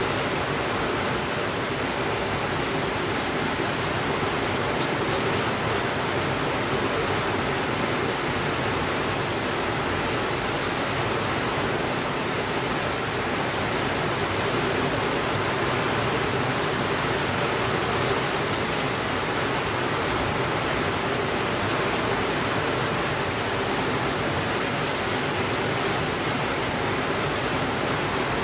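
Steady rainfall, an even hiss that does not let up, with a few faint ticks about twelve seconds in.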